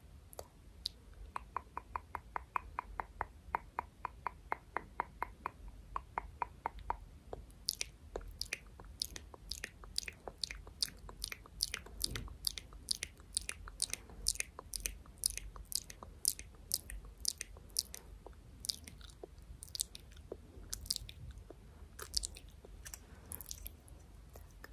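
Close-miked ASMR clicking sounds: a quick, even run of soft clicks about five a second for several seconds, then sharper, crisper clicks about two or three a second, becoming irregular toward the end.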